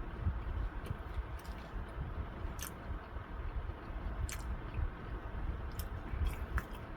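A person chewing fried chicken close to the microphone, with scattered small clicks over a continuous low rumble of mouth noise.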